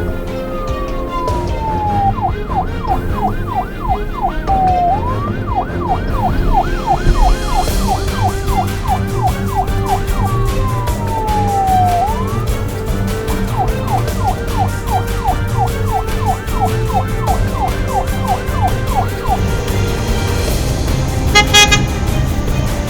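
An emergency-vehicle siren switching between a slow falling wail and a fast yelp of about three sweeps a second, over background music with a steady beat. A short horn toot sounds near the end.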